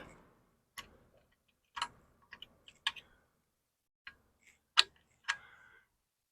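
Sparse, irregular sharp clicks and taps of small metal parts and tools being handled while fitting a part on a Cummins 4BT diesel engine block, about nine in all, the loudest a little before the five-second mark.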